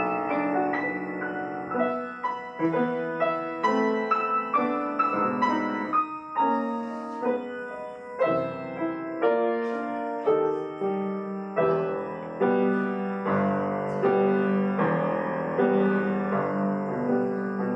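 Solo piano playing a flowing passage of melody over chords, each note struck and ringing away.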